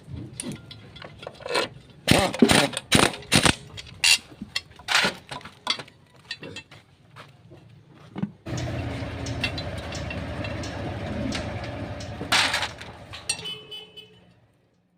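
Sharp metallic clinks and knocks of tools and engine parts being handled, then from about halfway a steady engine running, which cuts off abruptly near the end. The engine is most likely the Honda TMX 155's single-cylinder engine running after the right-side assembly.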